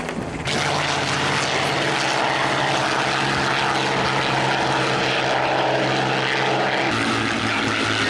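Propeller aircraft engine running with a loud, steady drone. It comes in abruptly about half a second in, and its note changes about seven seconds in.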